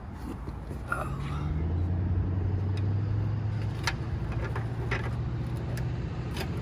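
A motor vehicle's engine running, a low steady hum that grows louder about a second in and then holds, with a few light clicks over it.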